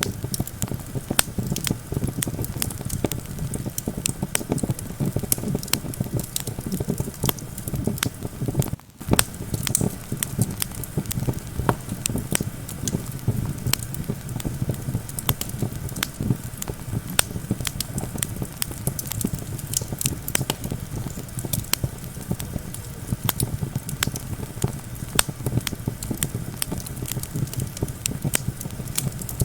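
Campfire crackling, with frequent irregular sharp pops and snaps, over a steady low rumble of wind. The sound drops out for a split second about nine seconds in.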